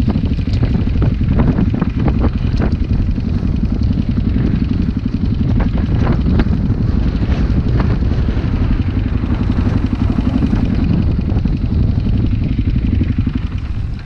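Motocross dirt bike engines running, a loud steady rumble with scattered sharp knocks and clatter.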